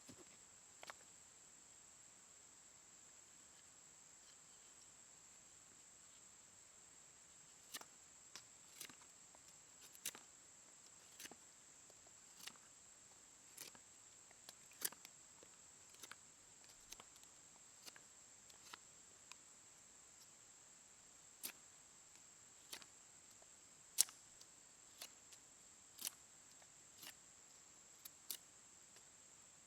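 Near silence with a faint steady high hiss and scattered sharp light clicks and taps, roughly one every second or two from about a quarter of the way in.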